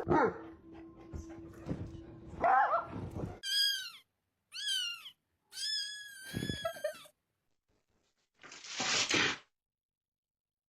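Domestic cat meowing about four times, each meow high and bending in pitch, the last one longer. Near the end there is a short noisy burst lasting about a second.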